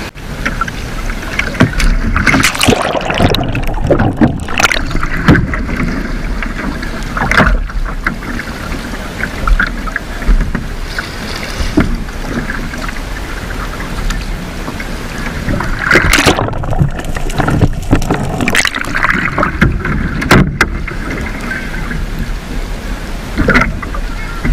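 Water splashing and sloshing around a sea kayak, with irregular sharp splashes every second or few over a steady rushing noise.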